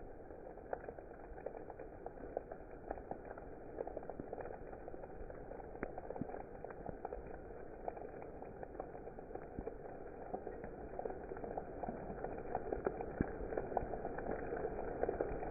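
Steady rain falling, with many sharp, irregular drop taps through it. It grows a little louder near the end.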